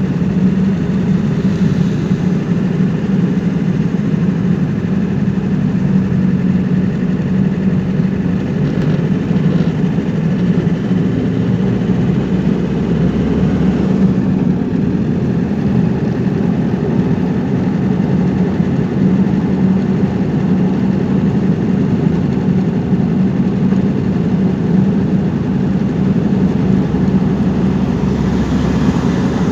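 A car's engine and road noise while driving: a steady, even drone.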